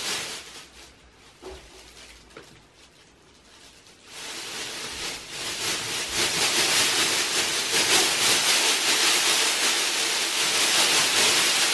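Foil emergency blanket crinkling and rustling as a baby handles it, a dense crackle like rain that starts about four seconds in after a quiet stretch.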